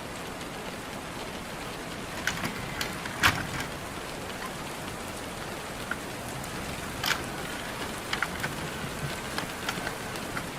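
Steady rain falling, with scattered louder drops tapping close by.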